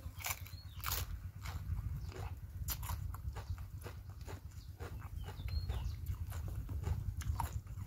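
A person chewing close to the microphone, crunching raw Chinese cabbage and papaya salad, with irregular wet mouth clicks and smacks. A steady low rumble runs underneath.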